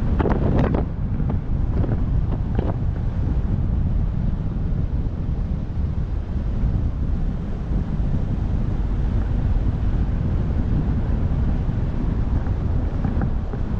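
Wind buffeting the microphone, a steady low rumble, with a few short sounds in the first three seconds.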